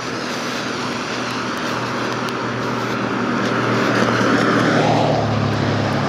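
A motor vehicle going by: engine and road noise build up, are loudest about four to five seconds in, then ease off.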